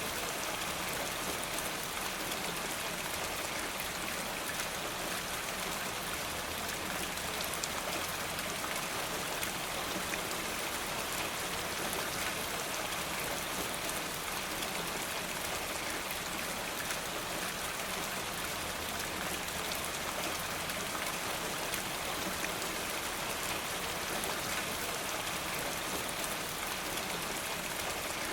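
Steady rain falling, an even hiss with many small ticks of drops all through.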